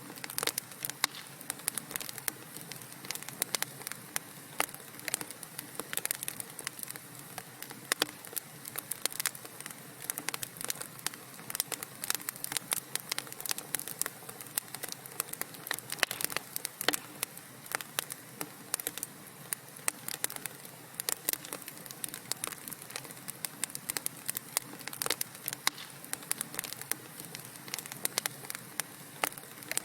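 Wood fire crackling: a dense, irregular stream of small pops and snaps over a soft steady hiss, with a few sharper pops standing out.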